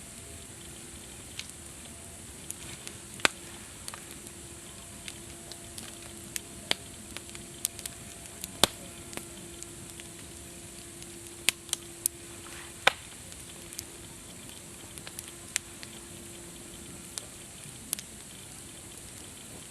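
Campfire crackling: a steady hiss of burning wood with irregular sharp pops, a few of them much louder than the rest.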